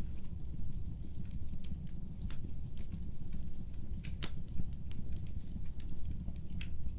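Fire in a fireplace crackling: irregular sharp pops and snaps, several a second and one louder pop about four seconds in, over a steady low rumble of the flames.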